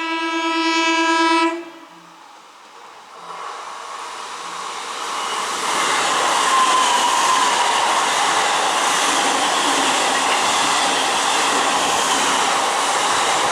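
A train horn blows one steady note, growing louder, and cuts off about a second and a half in. After a short lull, the rushing noise of a train passing at high speed builds up and stays loud.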